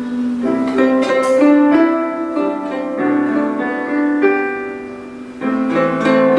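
Guzheng playing a slow melody: plucked notes that ring on and overlap. They die away about five seconds in, then a fresh group of plucks begins.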